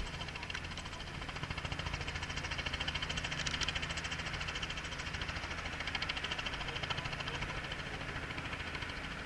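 Helicopter running, its rotor beating rapidly and evenly over a steady engine hum, a little louder from about a second and a half in.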